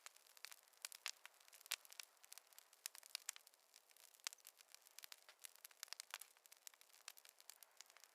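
Wood fire crackling softly: irregular small pops and snaps, several a second, some sharper than others.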